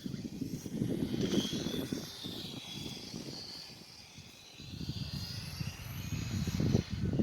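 On-road RC car's motor whining, its pitch gliding up and down as it speeds up and slows, over a low uneven rumble.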